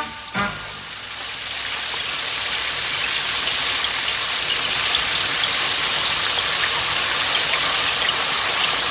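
Cartoon rain sound effect: a steady, dense downpour that swells in over the first second or two and then holds. Two short pitched sounds come right at the start.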